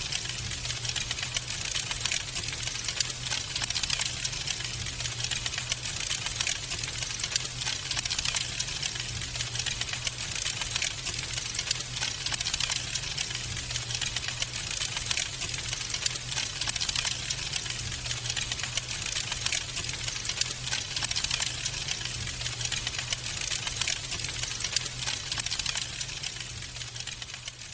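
Wood fire crackling in a fireplace: a dense, irregular stream of small pops and snaps over a steady low rumble, fading near the end.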